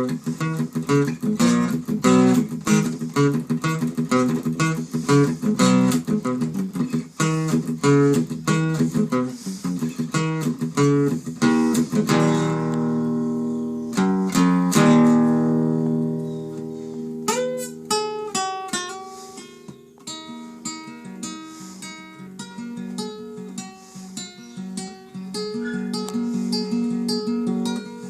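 Solo acoustic guitar playing without singing. Rhythmic chord strumming gives way about halfway through to a few chords left to ring, then to picked single notes.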